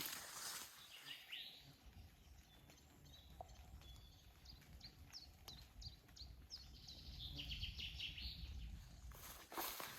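Faint birdsong: a series of short, high, downward-sliding chirps, then a quicker run of notes near the end, over a steady low rumble.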